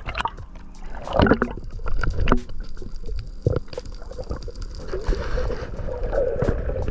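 Water sloshing and gurgling around a spearfisher's camera in the sea, with many scattered sharp clicks and a few louder surges.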